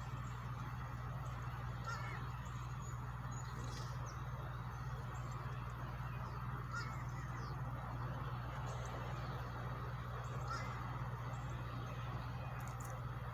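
An engine running steadily on high idle, a constant low hum, with short bird calls scattered over it.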